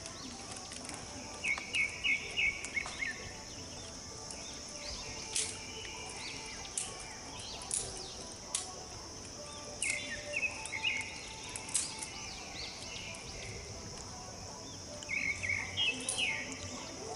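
Birds chirping in three quick bursts of rapid repeated notes over a steady high hiss.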